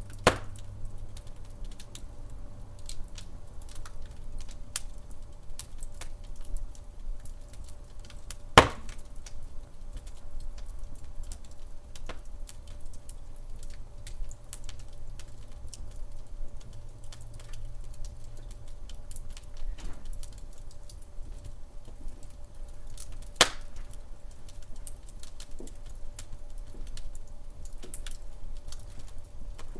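Wood fire crackling in a fireplace: a steady scatter of small crackles over a low rumble, with three louder pops, one right at the start, one about eight seconds in and one about twenty-three seconds in.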